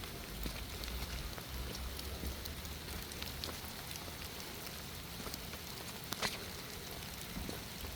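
Steady rain falling, with many scattered drop ticks and one sharper tap about six seconds in.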